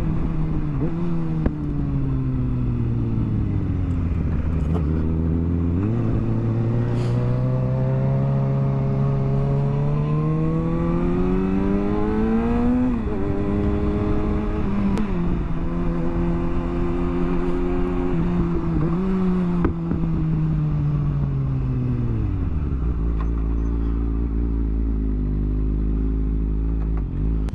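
Motorcycle engine under way, its pitch falling as it slows, then climbing steadily until a sudden drop at a gear change about thirteen seconds in. It holds steady for a while, then winds down and settles to a low idle for the last few seconds.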